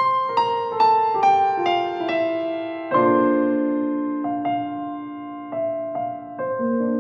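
Background music: solo piano playing a descending run of single notes, then slower held chords.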